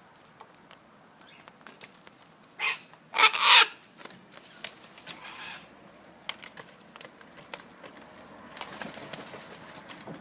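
Cockatoo eating: scattered small clicks and taps from its beak working the food, with one loud, harsh burst of noise lasting about a second roughly three seconds in.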